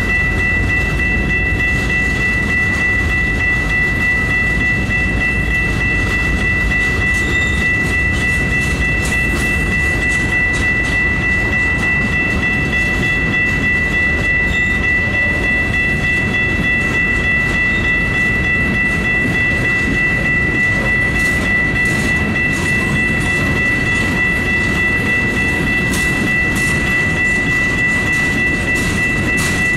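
Freight train's rock hopper cars rolling past, a steady rumble with wheel clatter, and a steady high whine over it.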